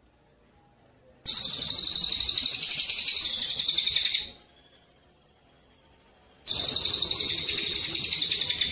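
Songbird giving a rapid, high, buzzy trill of about eight pulses a second, held for about three seconds. It stops, and a second trill starts about five and a half seconds in. A faint thin high tone, like an insect, sounds in the pauses.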